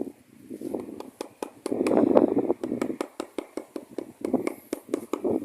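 Irregular sharp taps and clicks, several a second, over rough scraping or rustling noise that is loudest about two seconds in.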